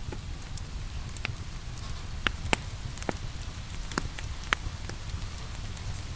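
Wood fire crackling with irregular sharp pops, a few louder snaps in the middle, over a steady low rumble and a soft patter of rain.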